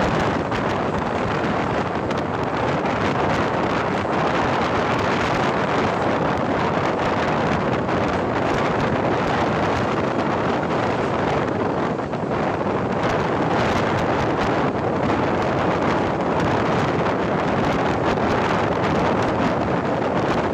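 Shatabdi Express train running at speed: a steady, unbroken rush of wheel and wind noise.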